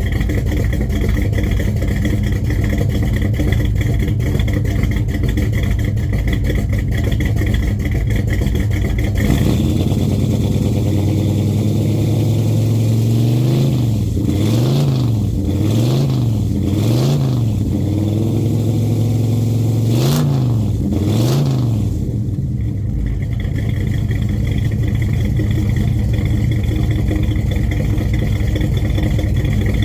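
Car engine running steadily, then blipped up and down in about six quick revs in the middle before settling back to a steady run.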